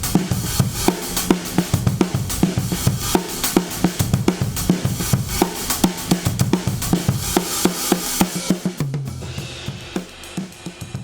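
Recorded drum kit groove, with kick, snare, hi-hat and cymbals, played back through a stock dbx 119 compressor/expander. About nine seconds in the kick and body drop away and the playing thins to fainter, sparser hits.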